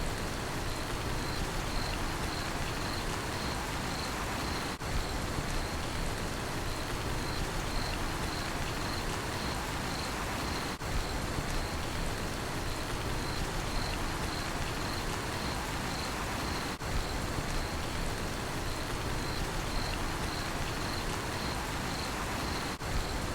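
Steady rainfall with a cricket chirping in a high, even pulse about twice a second. The sound dips briefly about every six seconds.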